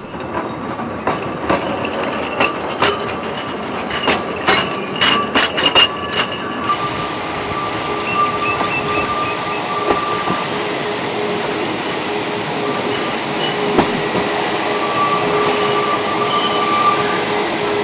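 Grain wagons of a steam-hauled harvest train rolling slowly while being shunted. There is a run of clanks and knocks from the wheels and couplings for the first six seconds or so, then a steady squeal from the wheels that comes and goes.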